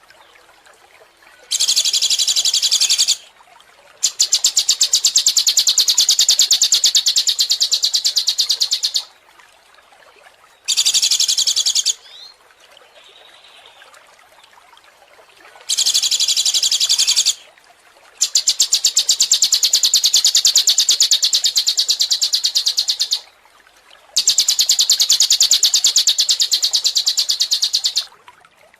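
A songbird's very fast, high trill of rapidly repeated notes, given in six bursts of one to five seconds with short pauses between, and a few faint short calls in the gaps.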